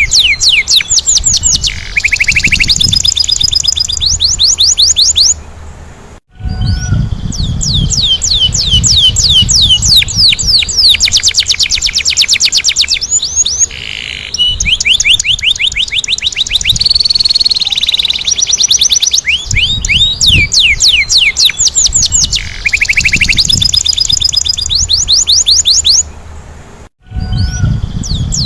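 Domestic canary singing in fast rolling trills, long runs of quick falling notes, with a low rumble underneath. The song breaks off briefly about six seconds in and again near the end.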